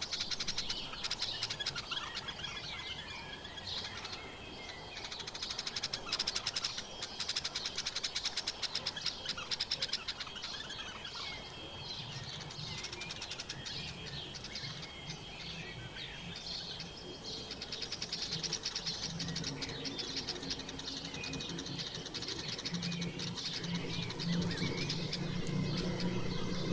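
Small birds chirping and twittering, with many quick overlapping calls, joined by a low steady hum that grows louder over the last several seconds.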